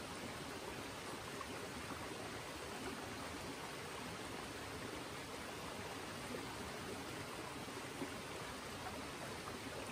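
Steady rush of a river flowing.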